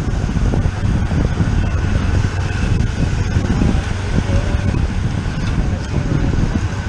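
Steady wind buffeting on the microphone of a bicycle-mounted camera while riding at race speed.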